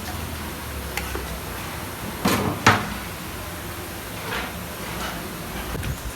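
Two sharp knocks close together about two and a half seconds in, with a lighter click before them and a few softer knocks near the end, over a low steady hum.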